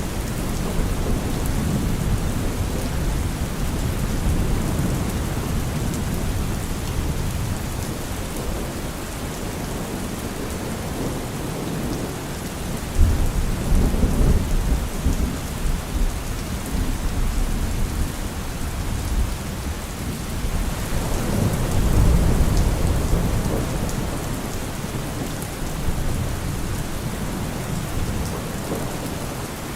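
Heavy rain falling steadily on a car roof, with thunder rumbling low twice: once a little before the middle and again about two-thirds of the way through.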